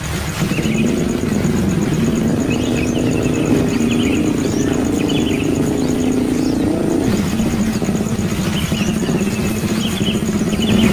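A motor engine running steadily, its pitch shifting about seven seconds in, with birds chirping in short repeated calls over it.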